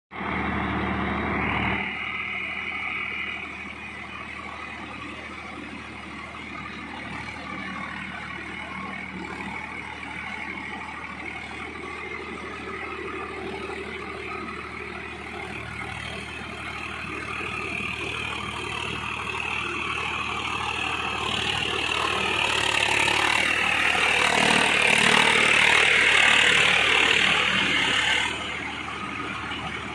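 Swaraj 744 4x4 tractor's diesel engine running steadily while ploughing a field. It grows louder from about twenty seconds in, then drops sharply near the end.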